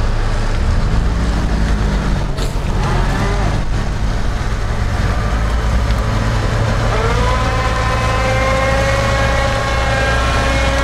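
Lada Niva Urban's four-cylinder petrol engine labouring in low gear as the car slips through sticky clay mud, its tyres clogged with clay. About seven seconds in the revs rise and then hold high in a steady whine.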